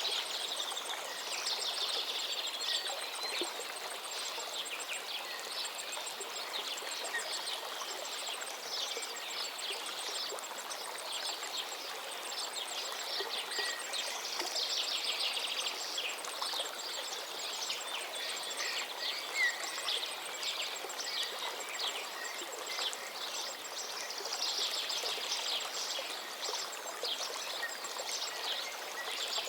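River water running steadily, with birds chirping and trilling over it; the birdsong comes thicker near the start, about halfway through and again near the end.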